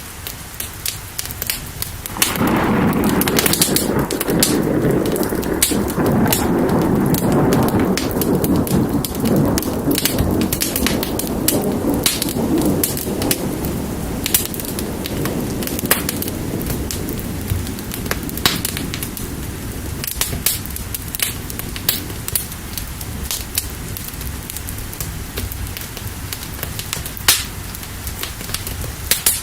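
Wood fire crackling with sharp pops over steady rain. About two seconds in, a long roll of thunder rumbles in and slowly dies away over the next ten seconds or so.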